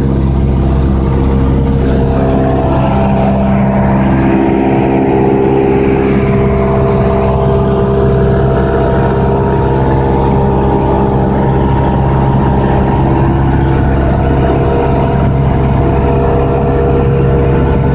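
Cessna 172 single-engine light aircraft, its piston engine and propeller running as a loud, steady drone, with a slight shift in pitch a few seconds in.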